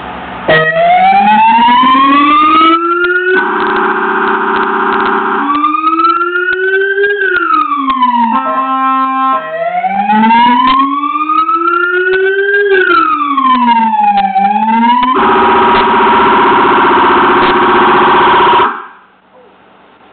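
Police car electronic siren cycling through its tones: a rising and falling wail, a rapid steady warble, and a brief fast two-tone switching, each running a few seconds before changing. It cuts off abruptly near the end.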